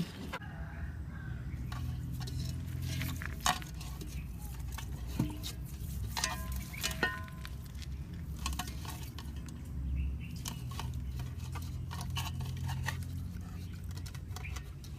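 Kitchen utensils and dishes being handled: scattered clinks and knocks of metal against crockery and pots, with two short ringing clinks about six and seven seconds in, over a low steady hum.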